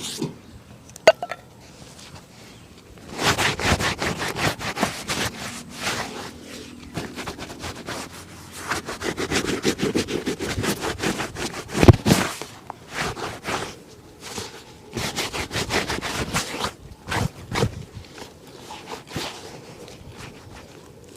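Shoe being rubbed and brushed in quick back-and-forth strokes during a shoe shine, in runs with short pauses, with a sharp tap about a second in and a louder knock about halfway through.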